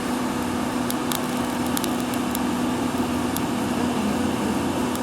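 A motor running steadily, a constant low hum over a rushing noise, with a few faint ticks and crackles.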